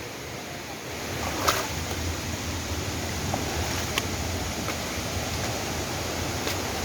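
Waterfall: a steady rush of falling water, growing a little louder about a second in, with a few faint clicks.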